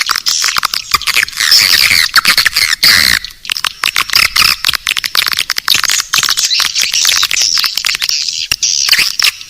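Swiftlet calling-sound recording: many swiftlets chattering in a dense, unbroken stream of rapid high chirps and twitters. It is a lure sound played in swiftlet houses to draw the birds in.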